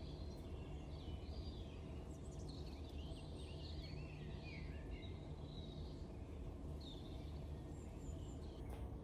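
Small birds chirping and singing in short, rapid calls over a steady low background rumble.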